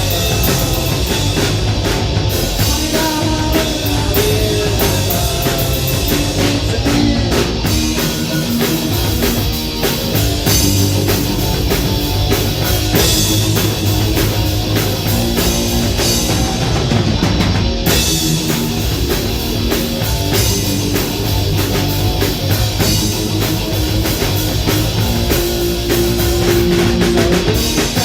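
Live rock band playing loudly: distorted electric guitars, bass and a drum kit driving a fast, steady beat.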